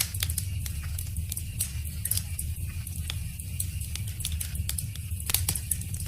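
Wood fire crackling, with irregular sharp pops over a steady low rumble and a quick cluster of louder pops about five seconds in.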